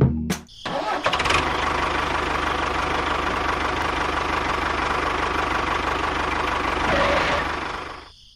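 A small motor starts with a brief rapid clatter, runs steadily with a fast even buzz for about seven seconds, then fades out near the end.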